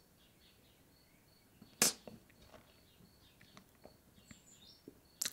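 Faint small birds chirping in the background, with a sharp click about two seconds in and a second click just before the end.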